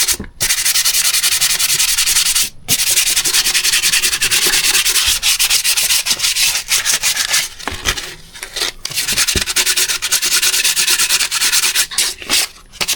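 Fine 1200-grit wet-and-dry abrasive paper rubbed rapidly back and forth over the side of an engine part, cleaning off residue. It comes in steady bouts of fast strokes, with a few brief pauses.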